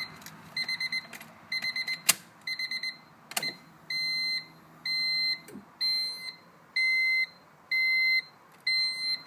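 High-pitched electronic beeping: quick groups of four short beeps about once a second, changing about four seconds in to single longer beeps roughly once a second. Two sharp clicks come about two and three and a half seconds in.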